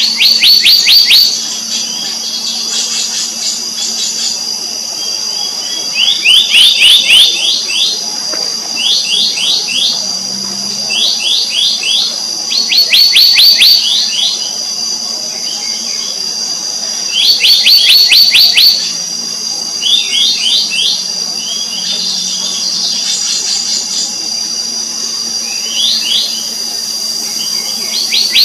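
Black-naped monarch calling: quick strings of sharp, ringing notes, each string about a second long, repeated every few seconds. A steady high insect drone runs underneath.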